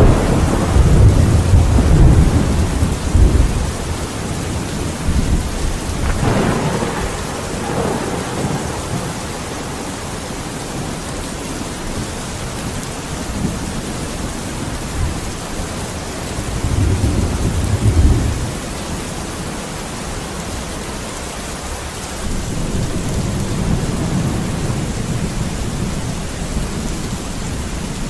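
Steady rain with thunder rolling several times: a long rumble at the start, another about six seconds in, a loud one about seventeen seconds in, and a softer roll near the end.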